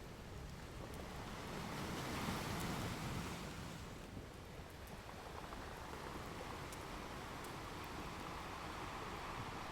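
Ocean waves washing ashore, one swell building about two seconds in and easing off, with a few faint crackles from a fireplace.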